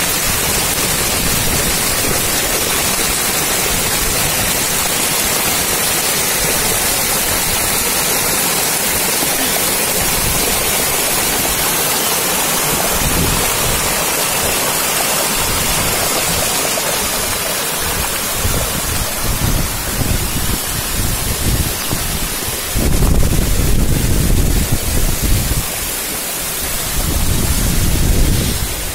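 Heavy rain pouring onto running water, a loud, steady hiss. In the last third, low rumbling gusts of wind hit the microphone on and off.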